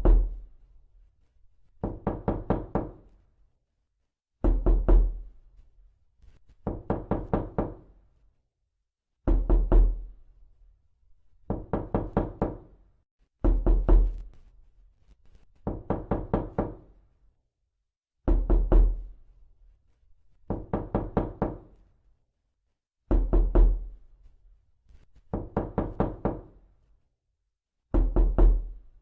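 Knocking in quick bursts of four to six knocks, about one burst every two seconds, each knock with a deep thump, the bursts alternating louder and softer.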